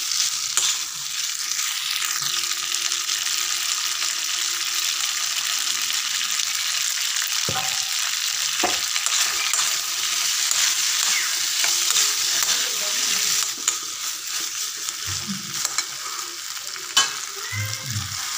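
Boiled potato chunks sizzling in oil in a metal wok while a spatula stirs and scrapes them, with a couple of sharp knocks of the spatula on the pan about halfway through. The sizzling drops a little about two-thirds of the way through.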